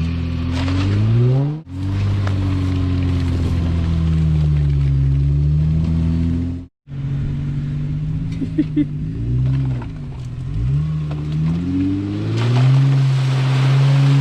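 A 4x4's engine revving up and down over and over as it tries to push through a deep mud hole with little traction. The sound breaks off abruptly twice.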